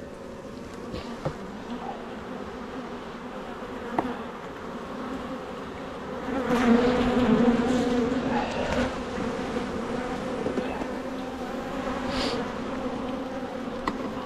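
Honeybees buzzing around an open hive: a steady hum that swells louder about six seconds in and then eases back, with a few light clicks.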